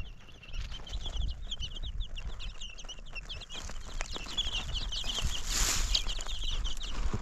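Many small birds chirping continuously in short, high, rapid chirps, over a low rumble, with a brief hiss about five and a half seconds in.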